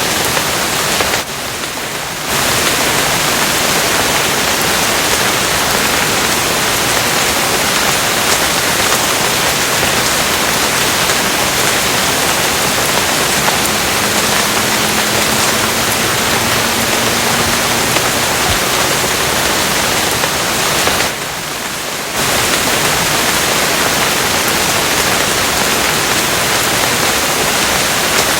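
Steady, heavy rain: a continuous dense hiss that briefly drops in level twice, about a second in and again around 21 seconds.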